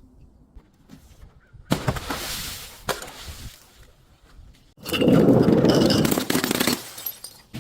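Something brittle being crushed. A sudden crack with crackling just under two seconds in, then a louder crunching that lasts about two seconds.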